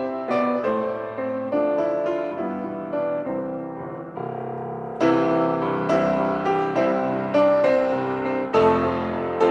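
Piano playing a hymn tune in chords, growing louder about five seconds in.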